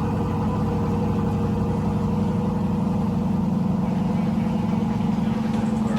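A V8 sports car engine idling steadily just after a cold start, getting a little louder about two seconds in.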